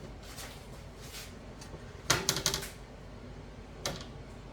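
Metal baking pan turned over and knocked against a wire cooling rack to shake the baked goods loose: a couple of light taps, then a quick run of clattering knocks about two seconds in, and one more knock near the end.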